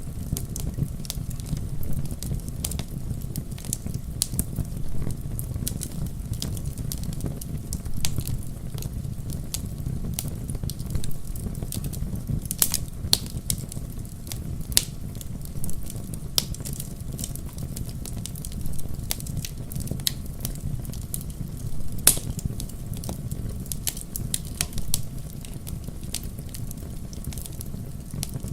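Wood fire burning in a fireplace: a steady low rumble of flames with frequent irregular crackles and pops, one sharper pop about 22 seconds in.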